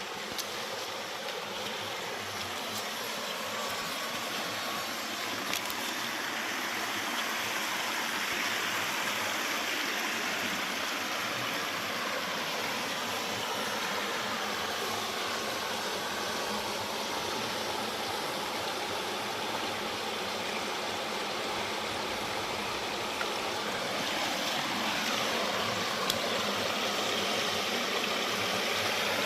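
Steady rush of flowing stream water, with no break for the whole stretch.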